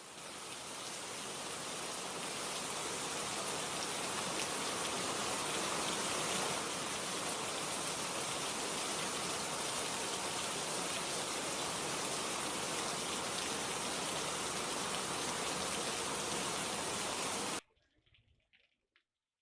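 Steady rain falling, an even hiss of drops that cuts off suddenly near the end.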